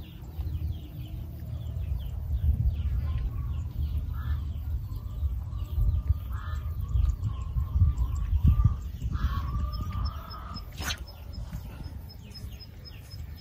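Birds calling over a steady low rumble, with one wavering call that rises three times and many short high chirps. A single sharp click comes near the end.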